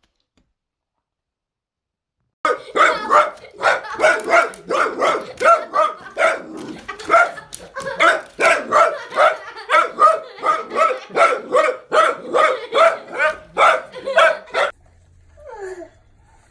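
A dog barking over and over, about two barks a second, starting about two seconds in and stopping after some twelve seconds, followed by a short falling yelp.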